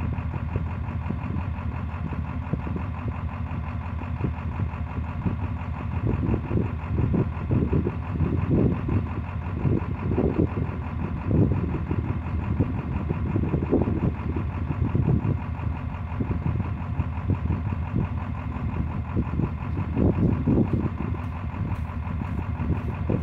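Ford 7.3 PowerStroke turbo-diesel V8 running, its steady note broken by uneven, irregular surges. The owner reports the engine is misfiring.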